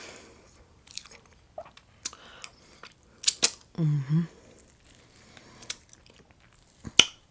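Close-miked chewing and mouth smacks of someone eating, with scattered sharp clicks, a short hummed "mm" about four seconds in, and one louder click near the end.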